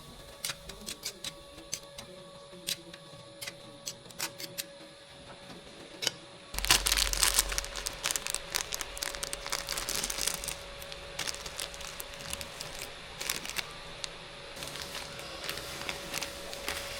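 Plastic packaging crinkling and tearing, with scattered sharp clicks; about six seconds in it becomes louder and busier, with a low rumble underneath.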